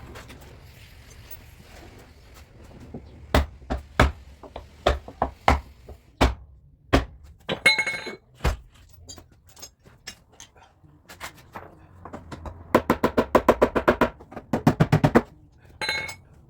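Hammer tapping on a car body's sheet-metal panel, as in dent repair and panel smoothing. There are single strikes about every half second, a few of them ringing briefly, then a fast run of rapid taps near the end.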